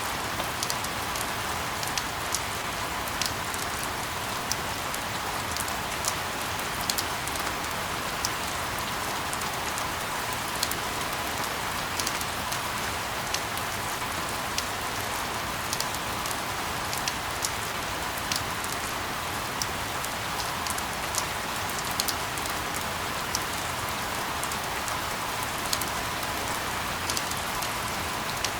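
Steady rain: an even hiss with many separate drops ticking sharply on a hard surface, scattered unevenly throughout.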